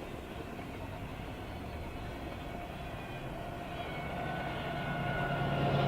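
Diesel locomotive of an approaching train, its engine rumble growing steadily louder. Steady engine tones come up over the noise in the last couple of seconds.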